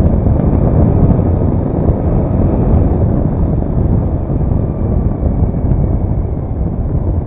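Steady wind rush on the microphone with the engine and road noise of a Daelim S3 scooter being ridden at speed.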